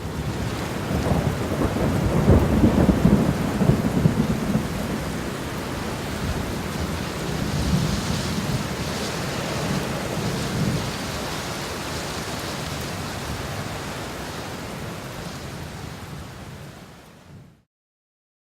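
Strong wind blowing in gusts: a loud, low rushing noise, loudest a couple of seconds in, then easing and fading out near the end.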